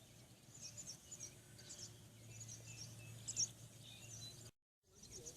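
Faint birds chirping in short, scattered calls over a low steady hum, with a brief total dropout near the end.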